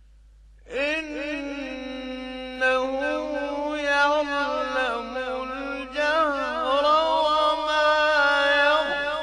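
A man's voice reciting the Quran in slow, melodic tajweed style, with long held notes and ornamented pitch turns. It begins about a second in, after a near-silent pause.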